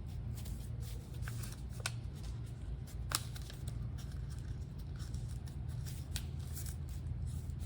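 Paper rustling and crinkling as decorative paper is folded around a piece of chipboard, with scattered soft crackles over a low steady hum.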